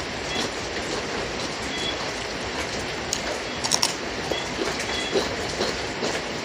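Steady rain falling, an even hiss, with a few small clicks and taps about halfway through.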